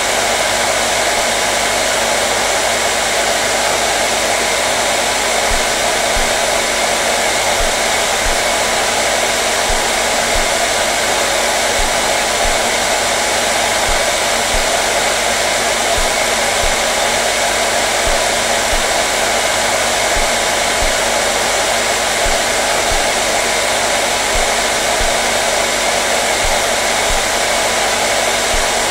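Hair dryer running steadily: a constant blowing hiss with a faint motor hum, unchanging throughout.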